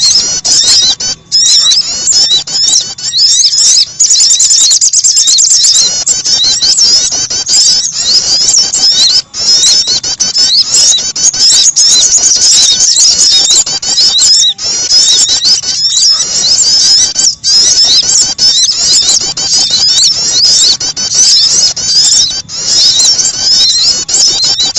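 Bird-lure recording of small birds, sogon and prenjak (prinia), chirping and trilling rapidly in a dense, high-pitched chatter with only brief gaps.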